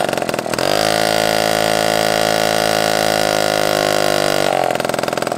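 Small Honda two-speed automatic moped's two-stroke engine, just revived after its oil-filled carburettor was cleaned, being revved up in the first second and held steadily at high revs without dying, then dropping back to an uneven idle near the end.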